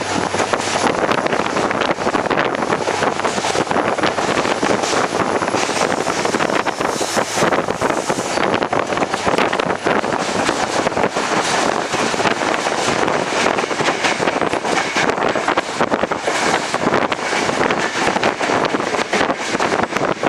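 Passenger train running at speed, heard from on board: a steady rush of wheel and track noise, with wind buffeting the microphone.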